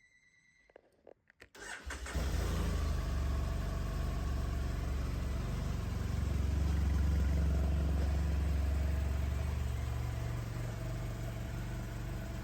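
BMW F800GT's 798cc parallel-twin engine starting after a few faint clicks about a second and a half in, then idling steadily, a little louder in the middle.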